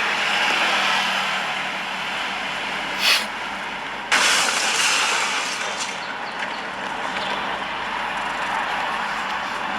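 Steady traffic noise, an even rushing hiss, with a brief louder hiss about three seconds in and a sudden jump in loudness about a second later.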